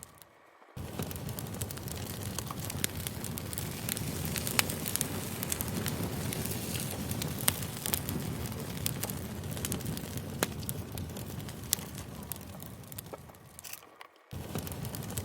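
Campfire crackling: a steady hiss of burning wood with frequent sharp pops. The sound drops out briefly at the start and again near the end, then comes straight back.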